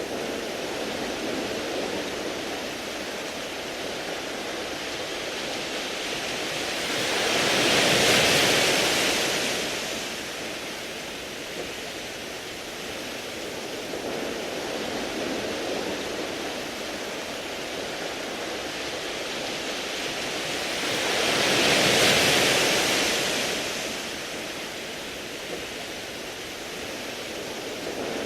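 Sea waves washing onto a beach of smooth round pebbles: a steady surf hiss with two waves swelling and breaking, about eight seconds in and again about fourteen seconds later.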